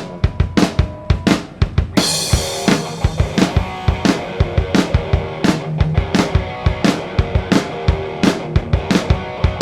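A live rock band starts a song: drum kit beating out a steady rhythm alone, with guitars and a cymbal crash coming in about two seconds in and the band playing together after that.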